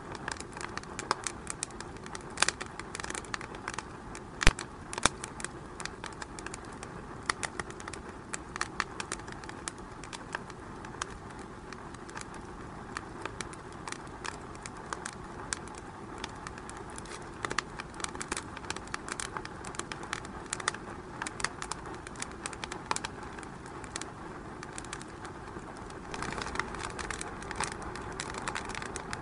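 Wood fire burning in a fireplace, crackling and popping steadily with many sharp snaps, one louder pop a few seconds in; the hiss of the flames grows a little louder near the end.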